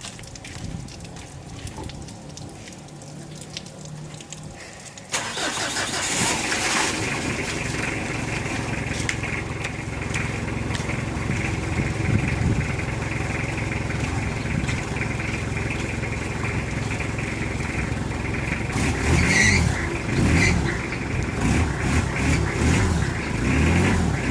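Mitsubishi Adventure engine starting about five seconds in, then running steadily. Near the end its pitch and loudness rise and fall, as with light revving.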